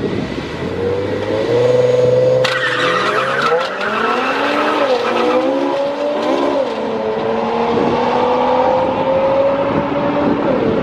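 Race car accelerating hard: its engine pitch climbs, drops and climbs again through several gear changes, with a sudden rush of noise about two and a half seconds in.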